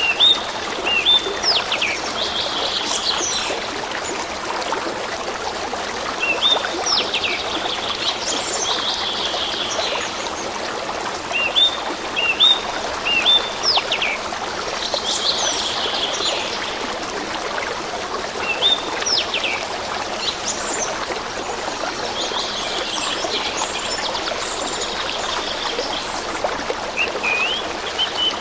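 A stream trickling steadily, with songbirds calling over it: short repeated chirps, quick falling whistled notes and brief trills, coming in groups every few seconds.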